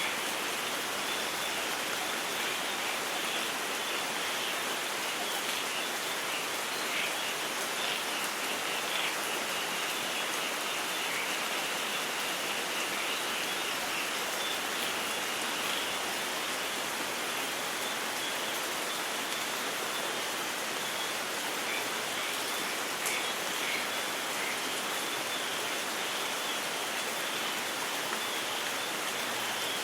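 Steady rain falling, an even hiss of water with no thunder.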